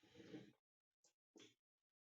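Near silence, broken by a few faint, brief noises: one at the very start and another about a second and a half in.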